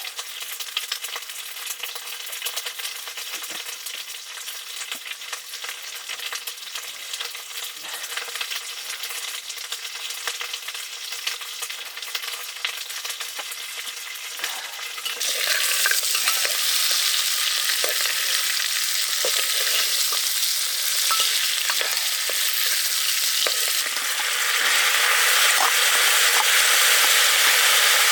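Pork curry frying and sizzling in a pan, with faint knocks of stirring. The sizzle grows much louder about halfway through and again near the end.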